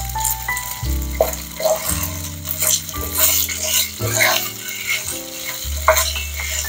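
Stir-fry sizzling in a hot pan, with irregular scrapes or knocks as it is stirred, under background music with a bass line and held melody notes.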